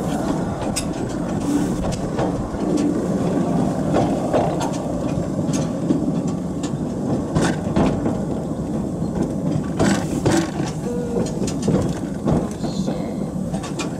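Miniature railway train running on its track: a steady rumble of wheels on rail with irregular sharp clicks and knocks.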